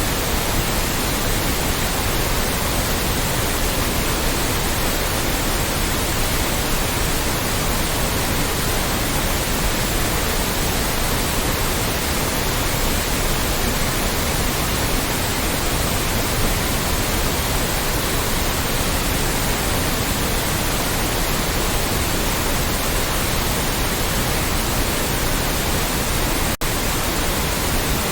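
Loud, steady white noise: an even hiss spread across all pitches, with a split-second dropout near the end.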